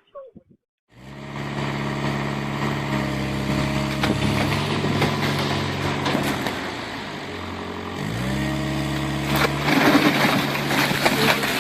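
A motor vehicle's engine running steadily, easing off about seven seconds in and revving back up a second later. Scattered clicks and knocks come near the end.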